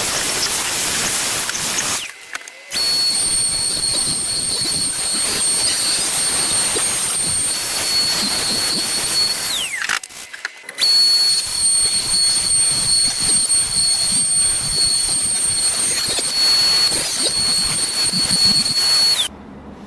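Trim router with a flush-trim bit cutting plywood along a template: a high steady whine over harsh cutting noise. The router runs in two long passes with a short pause between them, and each time it is switched off its whine falls in pitch as it spins down.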